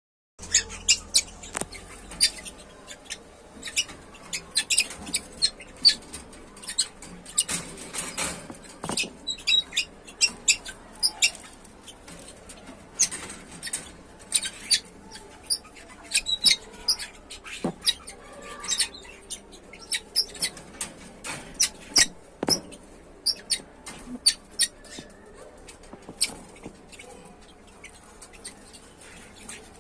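Budgerigars chirping and chattering: a rapid, unbroken run of short, high-pitched chirps, several a second.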